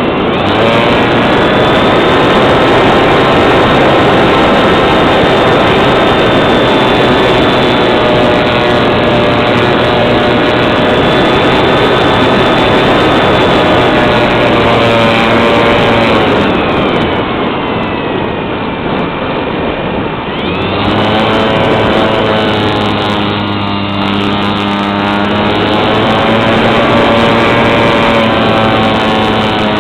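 A small engine running loudly at a steady speed. A little past halfway its speed sags and falls away, then it picks up again and runs on steadily.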